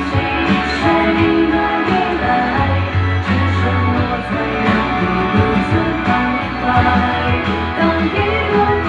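Live band performing a pop ballad, with guitar prominent over a steady bass.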